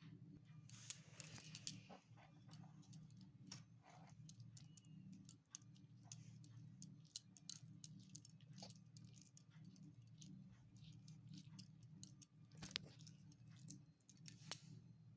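Faint, irregular clicks and taps of small kitchen utensils being handled in miniature cooking, over a low steady hum.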